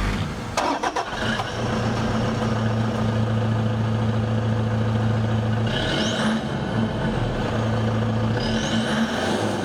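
Toyota Hilux turbo-diesel engine running through its exhaust at a steady idle. It is revved briefly twice, about halfway through and again near the end, each time with a rising whistle.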